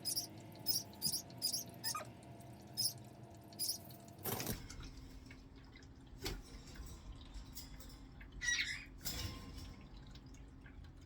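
Pet parrots chirping: a run of short, high chirps in the first few seconds and a few more calls near the end. There is a sharp knock about four seconds in and a softer one a couple of seconds later.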